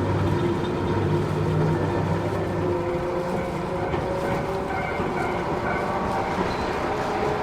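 Matsumoto Electric Railway 3000 series electric train running, heard from inside the passenger car: wheels on the rails with a steady traction-motor hum. The low hum drops away about three seconds in, and a higher tone rises slightly later on.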